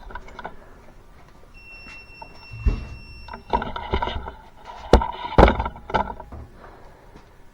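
Hands working around the engine bay: rubbing and clattering with a few sharp knocks, the loudest about five seconds in. A faint high whistle sounds for about two seconds near the start.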